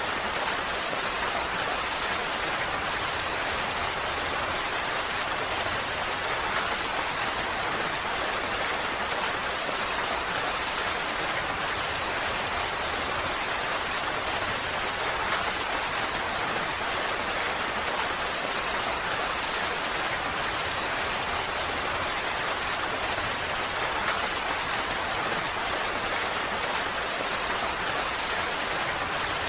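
Steady rain falling, a dense, even hiss with faint scattered drop ticks.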